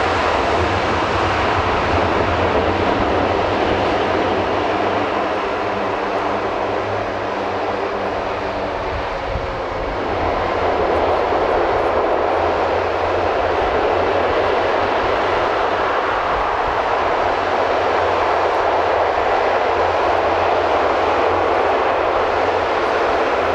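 Airbus A400M's four turboprop engines and propellers during a short landing: a steady loud propeller and engine noise that eases a little, then swells again about ten seconds in as the propellers go to maximum reverse thrust, staying loud while the aircraft slows on the runway.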